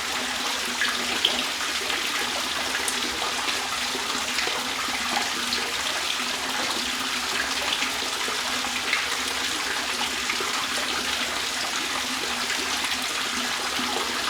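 Trickling, splashing water running steadily.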